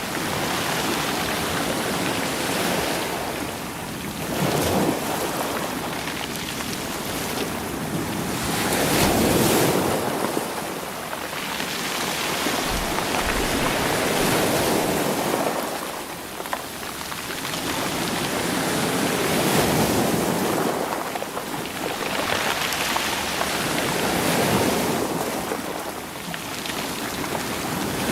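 Sea waves washing in over a stony beach, the stones rolling and rattling in the surf. The surge rises and falls in repeated swells, roughly every five seconds.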